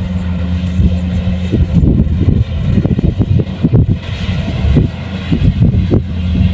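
Kubota rice combine harvester's diesel engine running steadily, with irregular low thumping and clatter in the middle few seconds.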